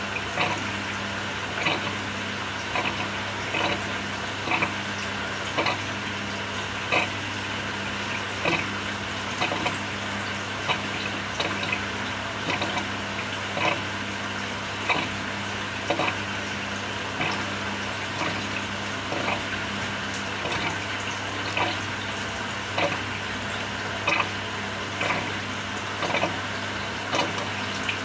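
Samsung 6.5 kg top-loader washing machine mid-cycle: a steady motor hum under water sloshing and splashing in the tub, with splashes peaking about once or twice a second.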